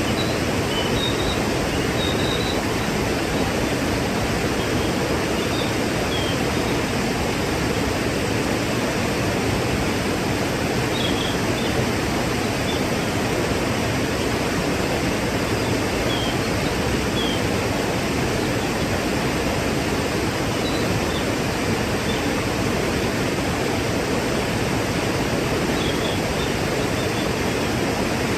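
Waterfall rushing steadily. A few faint, short, high chirps sound now and then over the roar.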